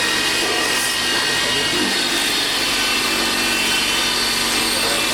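Steady workshop machinery noise: a constant hum with several held high tones over a dense rasping hiss, as of a power tool or machine cutting or grinding metal.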